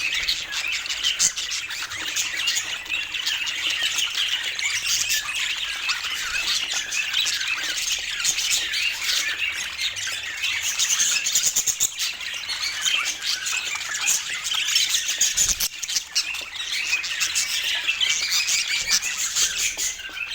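A flock of budgerigars chattering and squawking nonstop, many short overlapping calls at once.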